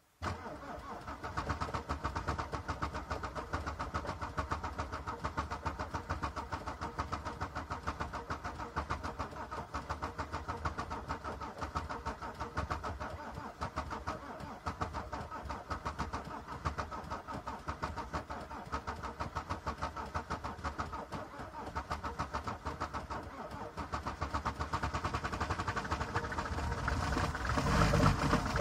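Mercedes-Benz W124 E-Class diesel engine starting from cold in deep frost, without preheating. The sound begins suddenly, runs as a fast, uneven mechanical pulsing, and grows louder near the end.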